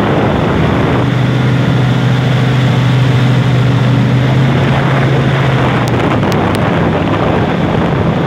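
Airboat's engine and propeller running steadily under way, with wind buffeting the microphone. The engine hum steps lower about a second in and blends into broader rushing noise about six seconds in.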